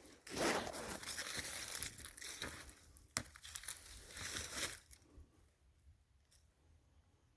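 Footsteps crunching and rustling through dry leaf litter and brush on frozen, lightly snow-covered ground, with a sharp snap about three seconds in. The crunching stops about five seconds in.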